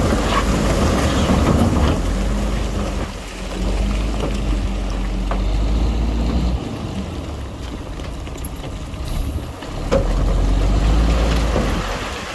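Heavy diesel engine of an earthmoving machine working, its low throb swelling and easing off several times as the load changes, with scattered clanks.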